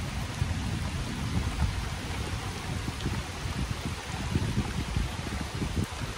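Rain falling steadily, an even hiss, with irregular low rumbling underneath.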